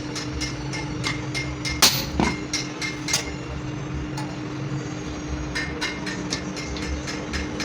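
Hammer tapping on metal clutch-plate parts, rapid light taps a few times a second with two harder strikes in the first half, over a steady machine hum.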